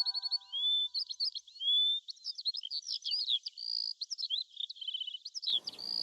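Small songbird chirping rapidly, a dense run of short high chirps, swooping notes and quick trills. Chime-like music tones fade out in the first second, and a faint hiss comes in near the end.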